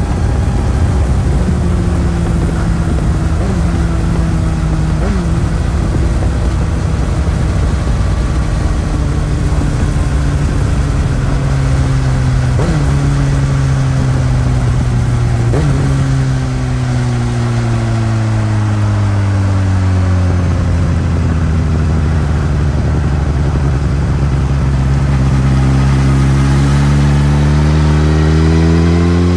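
2018 Suzuki GSX-S1000's inline-four engine through its stock exhaust while riding: the revs fall as the bike slows, with sudden rev jumps at the downshifts, settle to a low steady run, then climb steadily as it accelerates near the end. Wind rumble over the engine in the first half.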